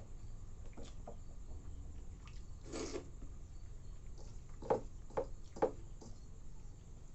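Close-up mouth sounds of eating chuda (flattened rice) soaked in milk: a longer wet sound about a third of the way in, then three short smacks about half a second apart.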